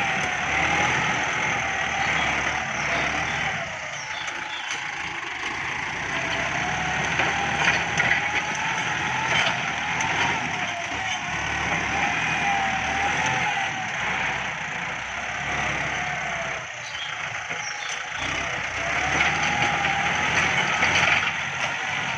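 Kubota MU5702 tractor's diesel engine running steadily under working load, its note drifting slightly up and down.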